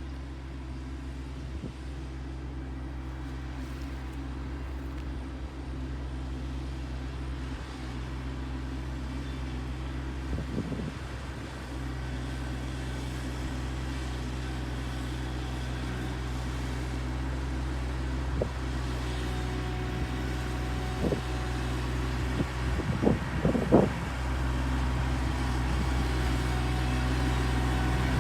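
A large engine running steadily at low, even revs, growing slowly louder. There are a few brief louder noises about 10 seconds in and again near 23 seconds in.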